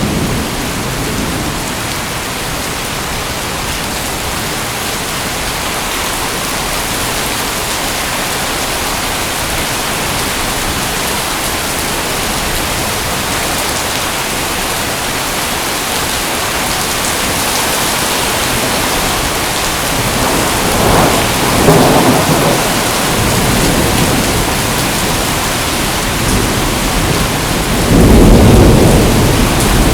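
Steady heavy rain falling on rainforest foliage, with a low rumble of thunder about two-thirds of the way in and another, louder one near the end.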